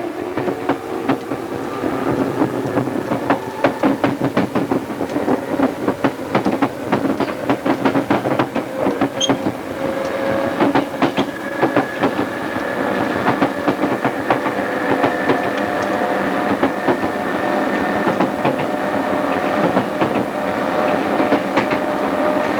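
Tokyu 2000 series electric train gathering speed, its motor whine a set of steady tones that rise slowly. Under the whine is a dense clatter of wheels over rail joints.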